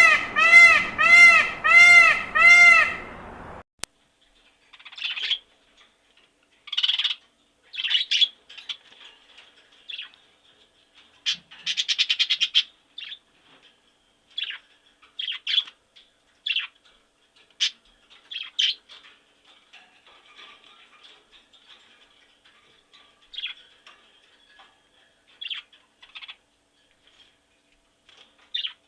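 Bird calls on a cartoon soundtrack. A loud pitched call repeats about six times in quick succession over the first three seconds. After that come scattered short, high chirps and tweets, some in quick trills, until the end.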